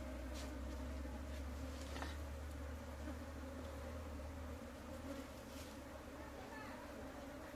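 Swarm of honeybees buzzing steadily around a broken-open hive, a continuous drone of many wings, with a low rumble underneath that drops away a little past halfway.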